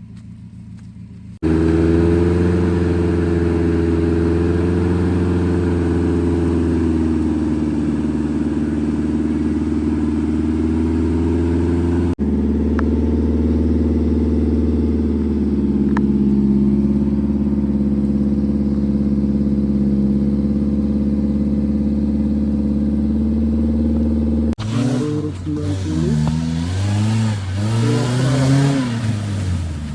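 Off-road 4x4's engine running steadily at raised revs, starting abruptly and broken twice by sudden cuts. In the last five seconds it revs up and down repeatedly.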